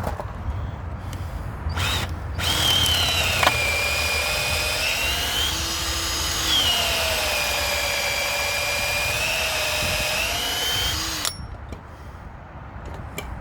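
Electric drill boring into the timber of a wooden gate to drill out a section piece by piece: a short burst, then a long steady run of about nine seconds, the motor pitch sagging as the bit bites and rising again.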